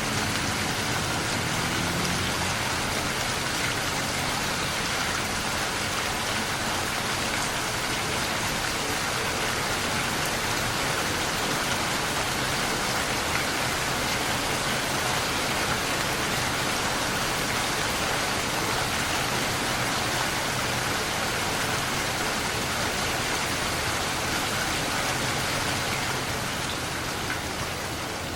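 Steady rain falling and pattering on surfaces, an even dense hiss with no thunder. It eases off slightly near the end.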